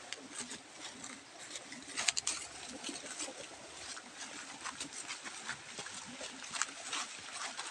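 Rain pattering in a forest, with irregular sharp drips and taps over a steady hiss and a brief cluster of louder taps about two seconds in.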